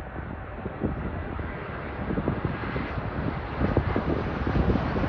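Jet airliner engine noise slowly growing louder as the plane approaches, with wind buffeting the microphone.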